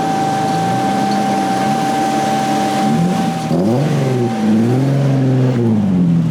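Toyota MA70 Supra's straight-six engine running hard at steady revs with a thin steady whine over it, then from about halfway the revs drop and climb again a couple of times.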